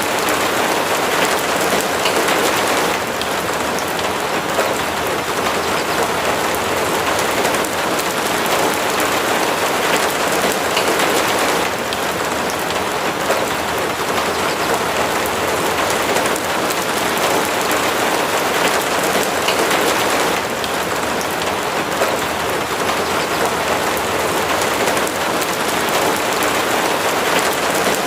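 Steady rain falling, an even hiss of many drops that eases slightly and swells again every several seconds.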